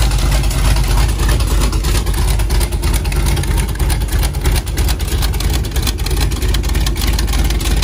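Rat rod's carbureted V8 with twin four-barrel carburettors and an upright exhaust stack, running with a deep, uneven rumble as the car creeps forward under light throttle.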